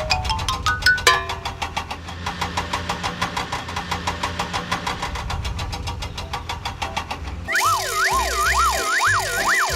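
A cartoon vehicle engine sound effect: a rapid, even chugging over a low hum. About a second in, a quick rising run of notes ends. Near the end the engine gives way to bouncy children's cartoon music with swooping, wobbling pitch slides.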